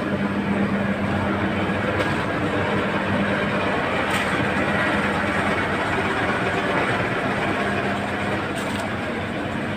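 Diesel tanker truck's engine running steadily with a constant low hum, driving a fuel transfer from one truck to another.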